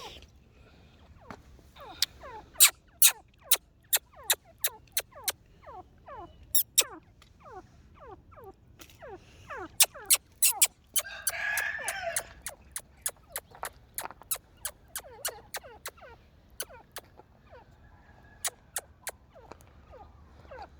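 Pet partridges (teetar) making a run of sharp, irregular clicks and taps, about two or three a second, with a louder, harsher burst about eleven seconds in.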